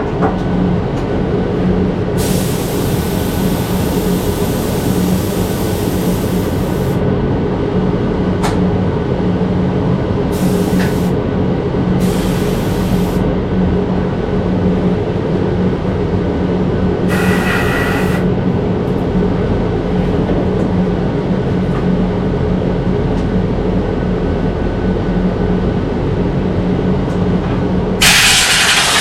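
A machine runs with a steady hum throughout. Over it come bursts of hissing air: one about two seconds in lasting some five seconds, then shorter ones around ten, twelve and seventeen seconds in.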